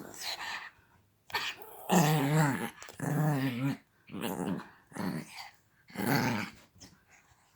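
A pet dog making a run of growling, grumbling vocal noises, about six or seven in a row. The two loudest, about two and three seconds in, warble up and down in pitch.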